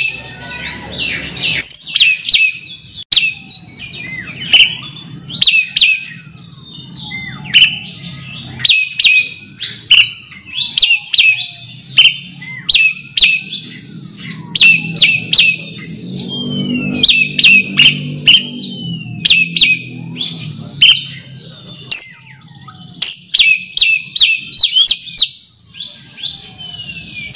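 Oriental magpie-robin (kacer) singing a fast, varied run of sharp whistles and chirps, its challenge song for calling out a rival.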